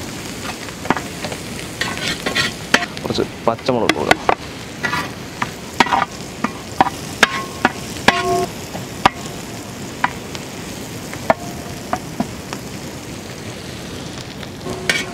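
Shallots, green chillies and curry leaves frying in coconut oil in a large metal pan, sautéing until they wilt. A steady sizzle runs under frequent sharp clicks and scrapes of a metal ladle stirring against the pan.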